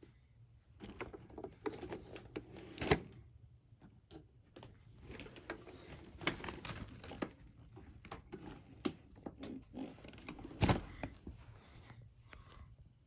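Handling noises: irregular rustling and clicking, with two louder knocks about three seconds in and near the end. No vacuum motor is running.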